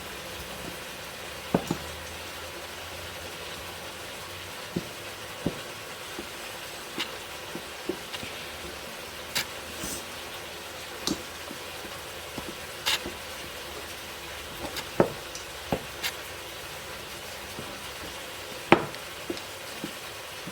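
Rice frying in a pan with a steady sizzle, and a spoon knocking and scraping against the pan at irregular moments as it is stirred.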